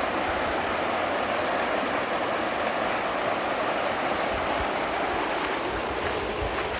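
River rapids rushing, a steady, even roar of water.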